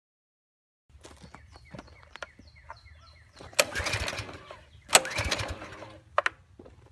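Two pulls on the tiller's small-engine recoil starter, about a second apart, each a loud whirring rush, with clicks and knocks before and after; the engine does not catch and run.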